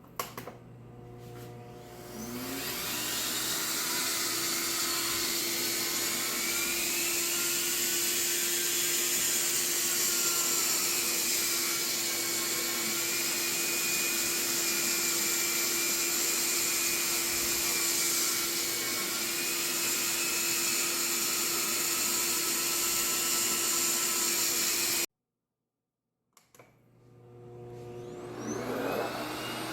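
iDogCare suction pet-grooming vacuum switched on and running with a steady loud rush of suction and a motor hum. Near the end it cuts out abruptly for about a second and a half, then starts up again.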